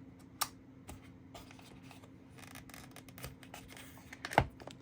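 Phone-box packaging being handled by hand: a sharp click about half a second in, light rubbing and rustling, and a louder tap near the end as the charging cable is taken out.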